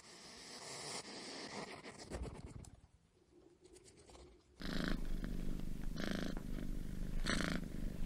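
Domestic cat purring, starting abruptly about four and a half seconds in, with regular swells about once a second. Before it there is a quieter rustling noise.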